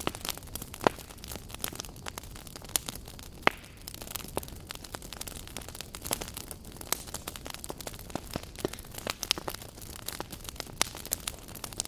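Wood fire burning in a fireplace, crackling with irregular sharp pops, a few louder snaps among them, over a low steady rush of the flames.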